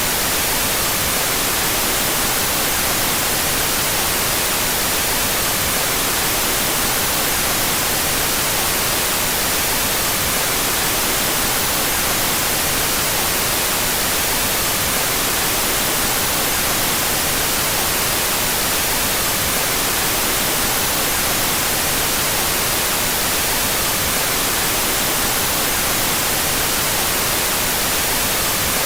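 Steady white noise: an even, unbroken hiss, brightest in the highs, with its stereo channels out of phase.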